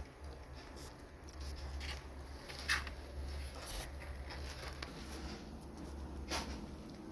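Kittens shuffling about in their bedding: soft rustling and light pattering, with two sharper clicks, one after about two and a half seconds and one near the end, over a low steady hum.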